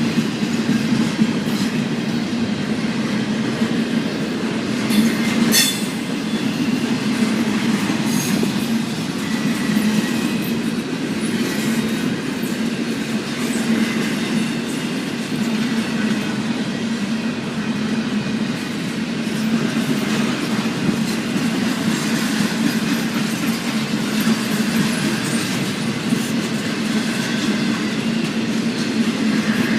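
Intermodal freight cars, double-stack well cars, rolling steadily past, wheels clattering on the rails, with a louder clank about five seconds in.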